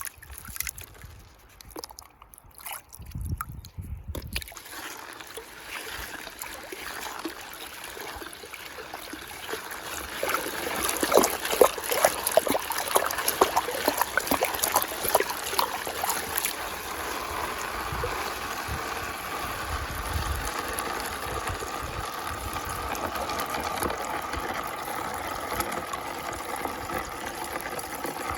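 Water swirling down through a whirlpool hole: a faint trickle builds into gurgling with a run of loud bubbly pops about halfway through, then settles into a steady rush.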